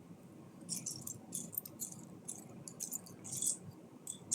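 Small plastic Lego pieces clicking and rattling as a hand sifts through them: a scatter of light, irregular clicks with a few short rattles.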